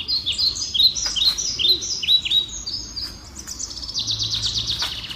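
Songbirds chirping: a quick run of short notes that swoop downward, about three or four a second, then about four seconds in a fast, even trill.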